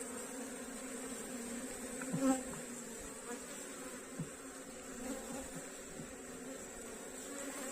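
Africanized honey bees buzzing steadily around their nest, with one bee buzzing louder and closer for a moment about two seconds in.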